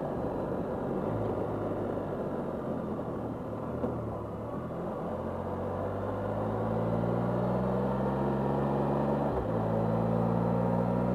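2020 Can-Am Spyder three-wheeled motorcycle's Rotax 1330 inline three-cylinder engine running under way, its pitch rising around the middle as the bike speeds up and then holding steady, heard from the rider's seat with road and wind noise.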